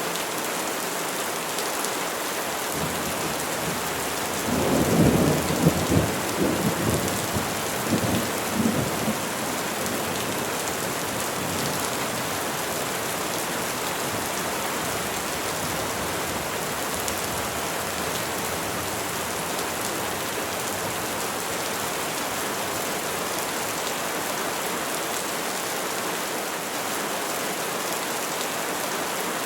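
Steady rain falling on trees. About five seconds in, a crackling rumble of thunder rolls in several pulses for around four seconds, then fades back into the rain.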